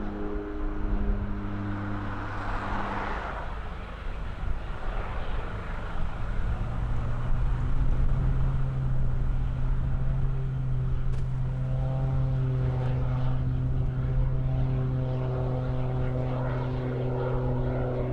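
Piper Aztec's twin six-cylinder Lycoming piston engines at takeoff power: a steady propeller drone that swells about six seconds in and holds.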